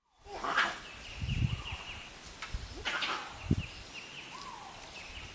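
Wild birds calling: a run of short, evenly repeated high chirps, with a falling call about a second in and again near four seconds. Two louder rough bursts stand out, one early and one about three seconds in.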